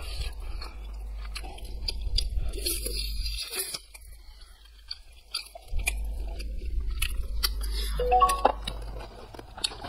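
Close-up eating sounds: wet chewing, biting and mouth smacks on cooked sea snail meat, heard as many small clicks. A brief pitched tone comes about eight seconds in.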